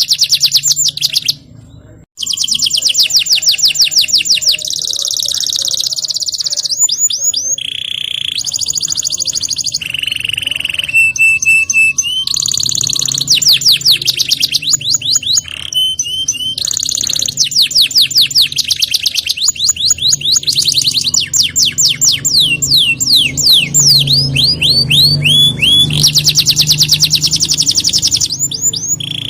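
Domestic canary singing a long song of rapid trills and rolls: fast runs of repeated notes, with falling sweeping notes in the second half and a brief break about a second and a half in.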